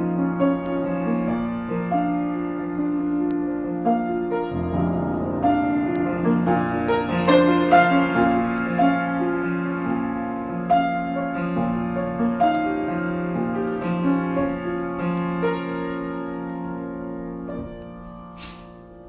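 Solo piano improvisation: a held low note under a slow, moving melody, dying away near the end.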